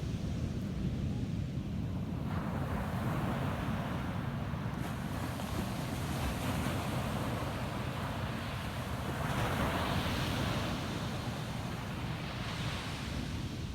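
Ocean waves washing onto a sandy beach over a steady low rumble. A surf hiss swells in about two seconds in and is loudest about two-thirds of the way through, as a wave breaks and runs up the sand.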